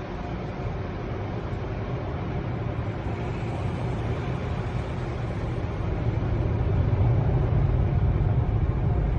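Car wash air dryers blowing on a car, heard from inside the cabin as a steady rushing noise that grows louder toward the end.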